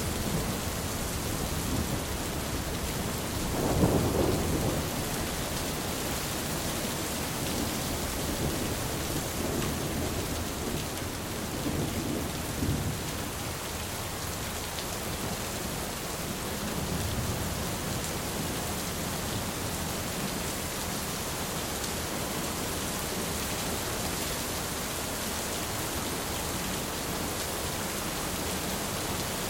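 Thunderstorm: steady rain hissing, with a roll of thunder rumbling up about four seconds in and fainter rumbles later on.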